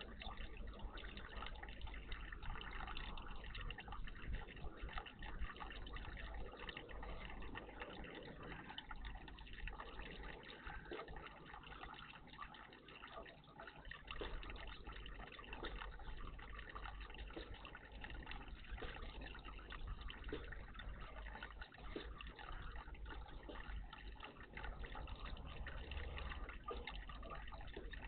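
Water trickling and dripping in a garden bird bath, with many small splashes and drips throughout over a low rumble.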